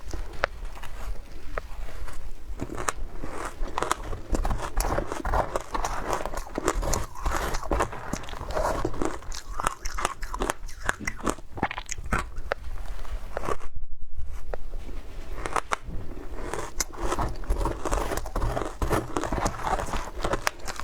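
Shaved ice with matcha being bitten and chewed close to the microphone: dense, irregular crunching and crackling. About two-thirds of the way through there is a short, louder, muffled stretch before the crunching resumes.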